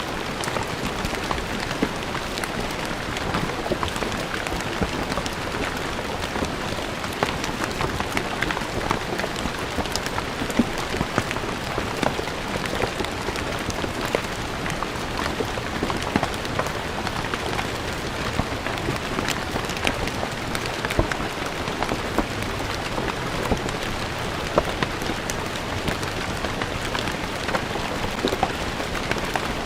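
Steady rain falling on stone ground, with many individual drops pattering and ticking on the hard surface.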